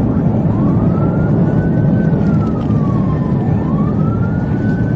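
Police siren wailing, its pitch slowly rising and falling about every three and a half seconds, over a loud, steady low rumble of vehicle and road noise.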